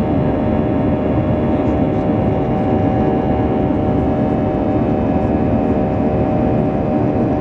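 Airbus A320's CFM56 turbofan engines running steadily: a constant jet-engine drone, layered with several steady tones, that holds an even level throughout.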